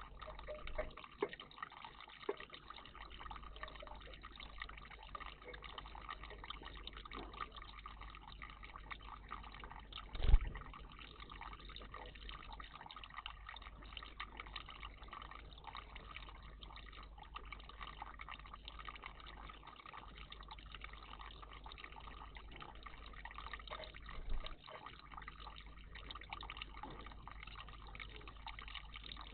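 Water trickling steadily in a garden bird bath, with a sharp low thump about ten seconds in and a softer one near the end.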